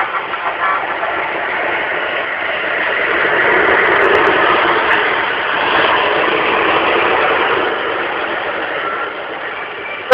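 Truck engine noise without clear tones, swelling louder in the middle and dying down towards the end.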